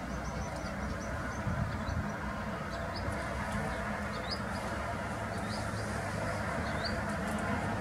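A bird's short, high chirps, repeated irregularly about once a second, over a steady low rumble.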